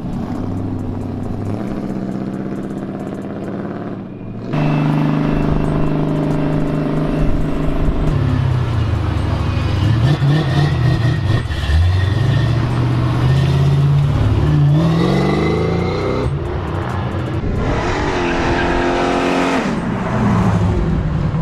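Car engines running and revving, the pitch rising and falling several times. The sound grows abruptly louder about four and a half seconds in.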